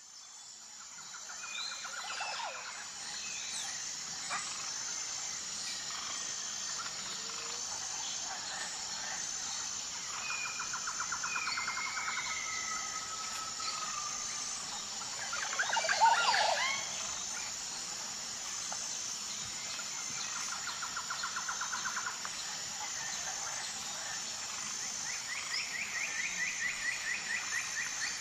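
Forest soundscape: a steady, high, pulsing insect drone under several birds calling and trilling, with a louder cluster of bird calls about halfway through. It fades in at the start.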